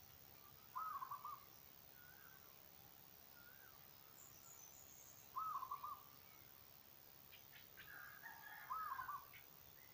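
A bird calling the same short, rising and wavering phrase three times, about four seconds apart, with fainter chirps from other birds in between.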